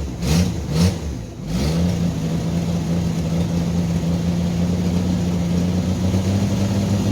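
Carbureted engine of a 1989 Jeep Wrangler YJ warming up from a cold start: about four quick throttle blips in the first second and a half, then held at a steady raised speed, running smoothly.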